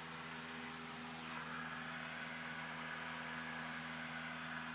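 Cessna 172's four-cylinder piston engine and propeller running steadily in flight, a constant drone heard inside the cabin.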